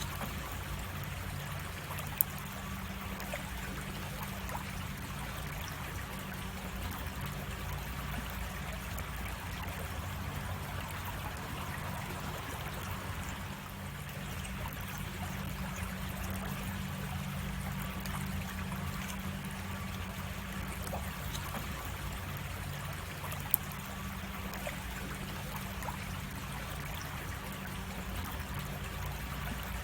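Creek water running and trickling steadily, with a brief sharp click twice.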